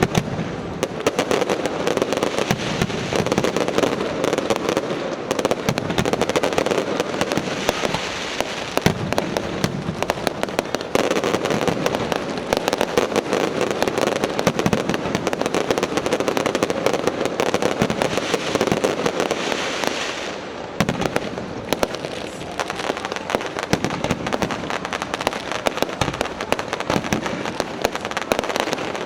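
Fireworks display: a dense, unbroken stream of crackling and popping bursts, easing briefly about twenty seconds in before picking up again.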